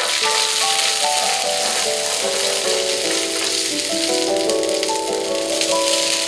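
Background music of slow, held notes over the sizzle of chopped nuts and raisins frying in a pan as a spatula stirs them.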